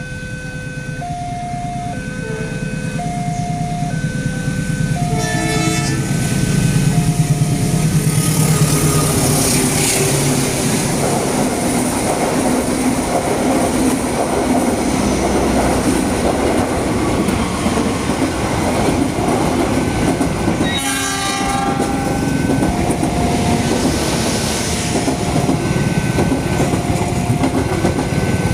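Westinghouse-type level crossing warning alarm sounding a repeating two-tone chime about once a second while a train passes. The train's rumble and wheel clatter build over the first seven seconds and hold, with a short horn blast about five seconds in and another about twenty-one seconds in.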